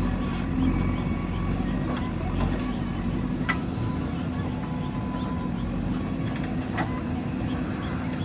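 Diesel engine of a JCB 3DX backhoe loader running steadily under work, with a couple of short clanks.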